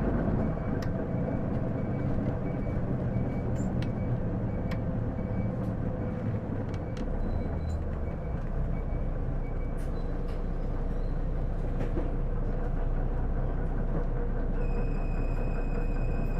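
Isuzu Erga city bus (PJ-LV234L1) heard from inside the cabin while running: steady engine and road rumble with small rattles. A faint beep repeats about every 0.7 seconds for the first six seconds, and a steady high whine starts near the end.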